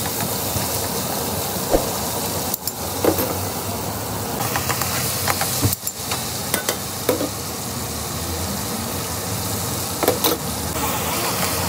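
Chicken pieces sizzling steadily in hot oil in a black iron karahi, with scattered clicks and pops as a metal ladle stirs them.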